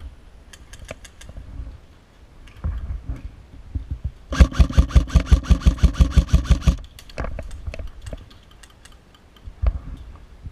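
Airsoft electric gun (AEG) firing one rapid full-auto burst of about two and a half seconds, starting about four seconds in, a fast even rattle of shots; fainter single shots and clicks come before and after it.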